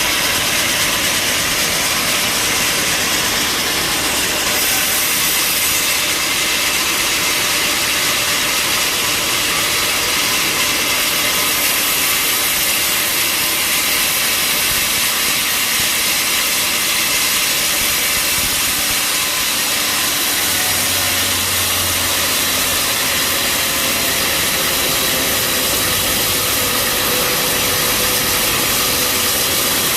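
Bandsaw sawmill running steadily, its blade sawing through a mahogany log with a loud, even hiss over the engine.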